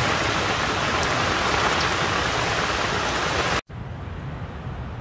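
Heavy rain falling on a moored sailboat and the flooded river, a steady dense hiss. It cuts off abruptly about three and a half seconds in, leaving a quieter, steady rushing noise.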